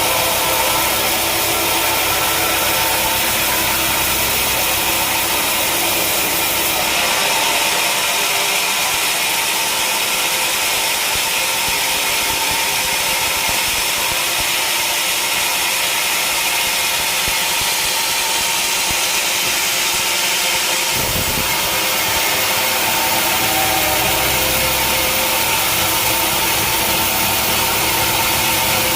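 Sawmill machinery running steadily and loudly, with a hum of steady tones; its sound turns brighter and thinner about seven seconds in and changes back about twenty-one seconds in.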